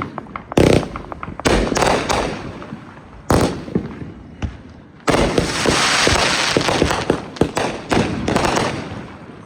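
Consumer fireworks going off: several sharp booms in the first few seconds, then a dense crackling burst about five seconds in that lasts around two seconds, followed by more scattered pops.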